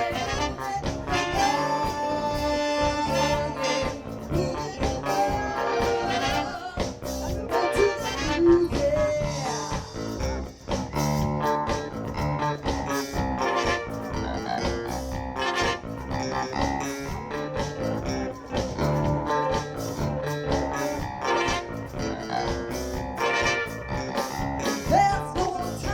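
Live soul band playing an instrumental passage: horns (sax, trombone, trumpet) carry held melodic lines over drums, bass, electric guitar and keyboard keeping a steady beat.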